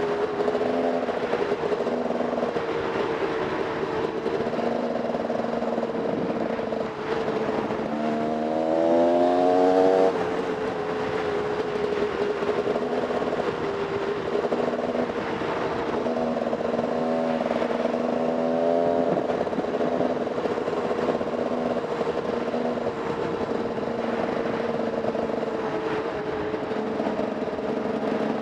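Enduro dirt bike engine running under way, its pitch mostly steady with the revs climbing under throttle about eight seconds in and again later.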